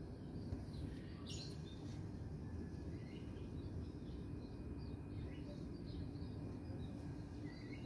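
Small birds chirping, short high calls scattered throughout, with a sharper call about a second in and a rising one near the end, over a steady low background rumble.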